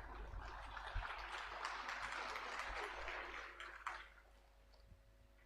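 Faint audience applause, a haze of many small claps that fades out about four seconds in.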